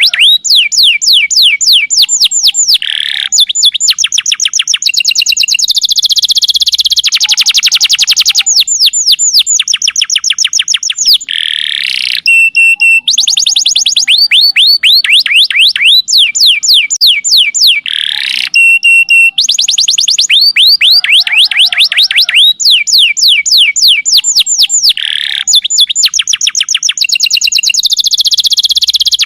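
Domestic canary song played as a masteran (tutor recording): fast, high-pitched trills of rapidly repeated falling whistles, changing from one trill type to the next, with the same run of phrases coming round again about every seven to eight seconds.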